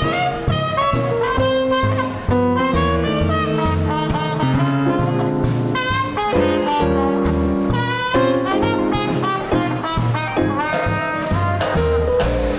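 Small-group swing band playing live, with saxophone and trumpet on the melody over piano, bass and drums. A steady beat runs underneath the horn lines.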